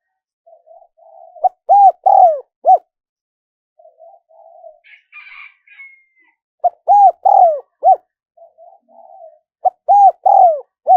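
Spotted dove cooing: three song phrases about four seconds apart, each a few soft low notes running into three or four loud coos. A brief faint chirp sounds in the middle.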